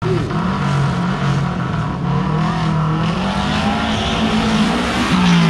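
Subaru Impreza WRX STI's turbocharged flat-four engine revving on the hillclimb start line before launch. The revs are held up and step up and down a few times, then rise near the end.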